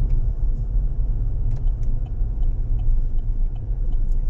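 Truck driving along a road: a steady low rumble of engine and tyres, with a few faint light ticks and rattles.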